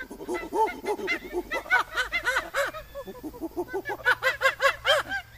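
A rapid, overlapping series of short animal calls, each rising and falling in pitch, several a second, thinning out briefly about three seconds in before picking up again.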